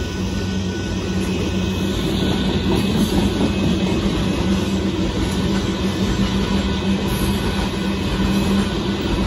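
Covered hopper cars of a freight train rolling steadily past: a continuous rumble and rattle of steel wheels on the rails.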